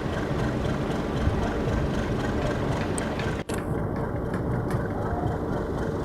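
An engine running steadily under a dense rumble. It drops out for an instant about halfway through, after which the sound is duller.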